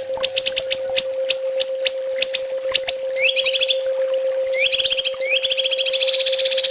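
A small songbird giving rapid 'tembakan' call bursts: sharp, steeply falling high chips, then about four and a half seconds in a fast, dense trill. A steady low hum runs underneath.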